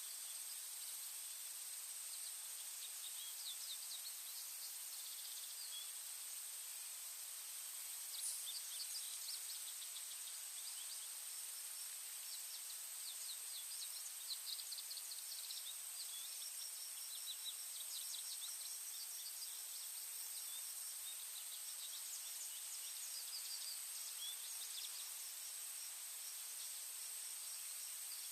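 Forest ambience: small birds chirping and trilling in short bursts over a steady high hiss and a thin continuous high-pitched drone.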